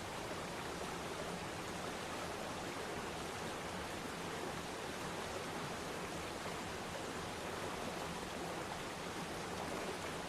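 Waterfall: water falling and splashing into a pool in a steady, even rush.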